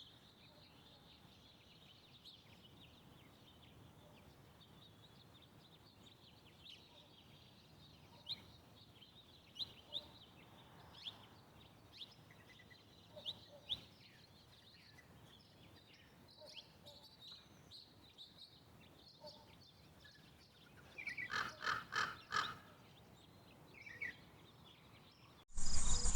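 Faint grassland ambience: a steady high insect hiss with scattered short bird chirps, and a louder run of rapid bird calls about 21 seconds in. Near the end it switches suddenly to loud, dense cricket chirring.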